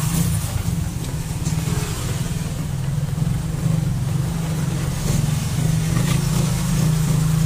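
Motorcycle engine of a tricycle heard from inside its sidecar, running steadily as it drives, with a low drone that gets a little louder over the last two seconds.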